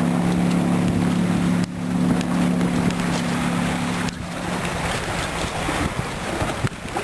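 Oldsmobile 455 V8 of a 1973 Apollo jet boat running at a steady pace, with wind and water rushing. About four seconds in the engine note drops away, leaving wind and water noise with a few knocks.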